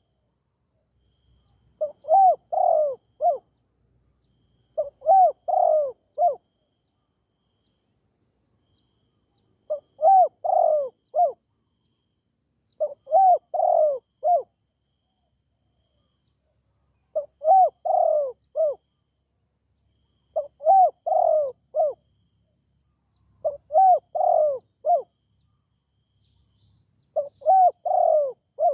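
Spotted dove cooing: a repeated phrase of several short coos, each phrase lasting about a second and a half, heard eight times with pauses of one to three seconds between.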